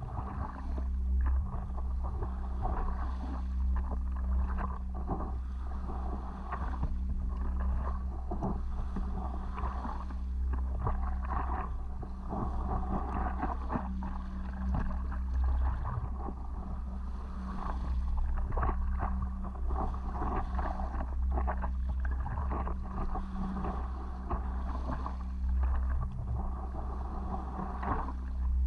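Water splashing and slapping against a stand-up paddleboard as it is paddled through small waves, in many short irregular splashes, over a steady low wind rumble on the microphone.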